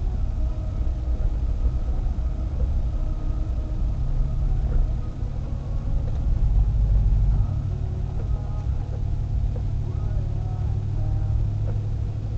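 Steady low rumble inside a car's cabin as it drives on a slushy, snow-covered road: engine and tyre noise.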